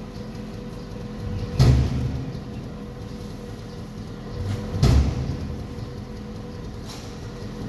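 Two heavy, dull thumps about three seconds apart, typical of rice sacks being dropped onto a stack while loading a container, over a steady engine running.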